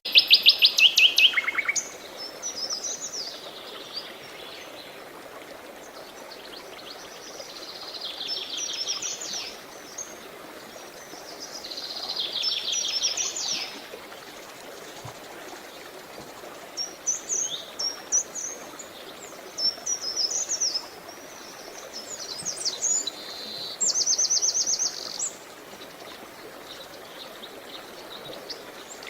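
Several songbirds singing and chirping, with fast trills of rapidly repeated high notes at the start, near the middle and near the end, over a steady wash of running water.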